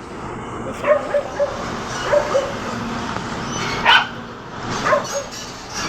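A dog barking several times in short yelps, over steady road traffic noise.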